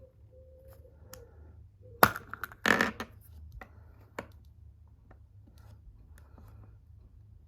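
Hands opening a surprise egg: a sharp snap about two seconds in, then a brief loud crackle of crushed or torn wrapping, followed by light clicks and rustles of handling.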